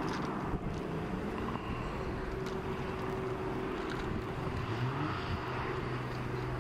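Helicopter engine and rotors running, a steady pitched drone over a rushing noise, with one tone rising slightly about five seconds in.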